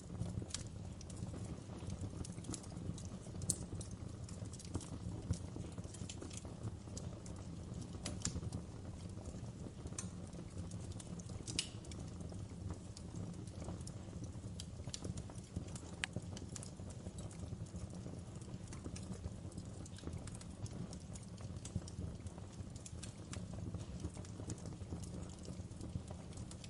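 Wood fire crackling in a fireplace: irregular sharp pops and snaps, a few louder than the rest, over a steady low rumble of the burning logs.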